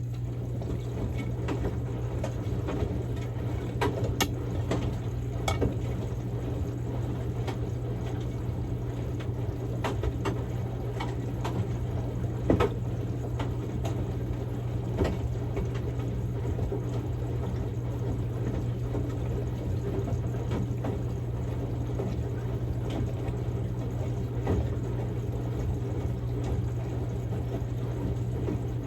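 Samsung Grande washing machine running a quick-wash cycle with a padded jacket in the drum: a steady motor hum with water sloshing, and now and then a light click or knock as the load turns.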